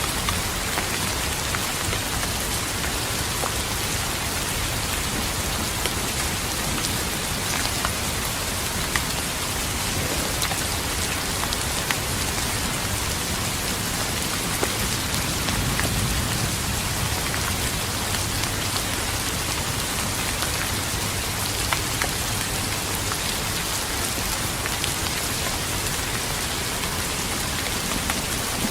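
Steady, heavy rain falling on a surface, an even hiss with scattered sharp drop ticks.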